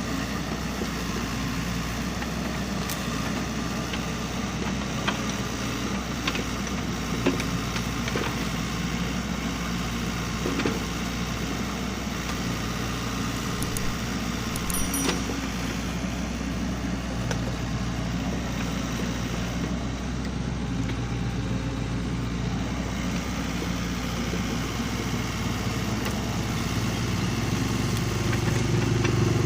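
SANY hydraulic excavator's diesel engine running steadily while it works the soil, with occasional sharp clicks and knocks. The engine grows louder near the end.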